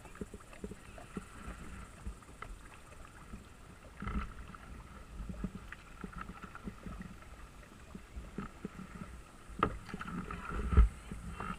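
Kayak paddling: paddle blades dipping and splashing in the water, with scattered small knocks and a few low thumps, the loudest one near the end.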